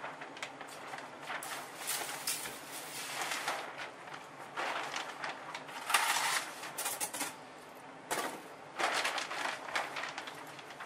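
Plastic vapor-barrier sheeting crinkling and rustling in irregular bursts as it is pulled away from a basement wall, with a louder rustle about six seconds in.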